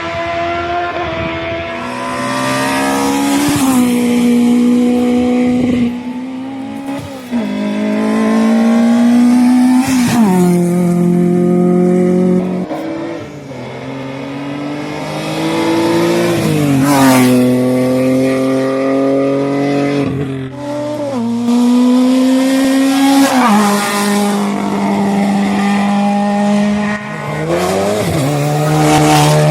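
Race car engine driven hard, its pitch climbing under acceleration and dropping abruptly at each gear change. Every few seconds there are short sharp rises in pitch like throttle blips on downshifts.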